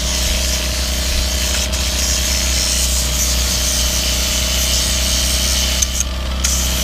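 A power tool fitted with a wire cup brush scrubbing a brick surface: a steady, loud whirring scrape. The scraping breaks off for a moment near the end.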